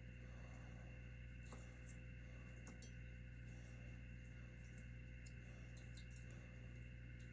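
Near silence: a steady low electrical hum, with a few faint, scattered clicks.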